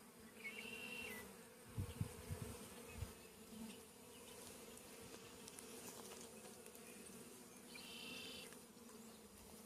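Honeybee colony buzzing steadily around an open hive during a frame inspection, a faint, even hum. A few low bumps come about two to three seconds in.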